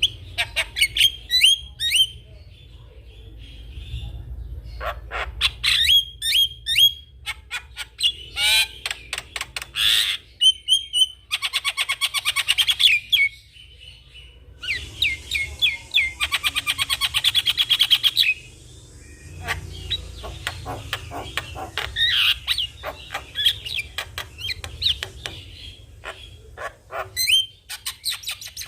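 Javan myna singing vigorously: a loud, varied string of sharp chattering notes and slurred whistles, with two long fast rattling runs in the middle. A low background hum runs underneath.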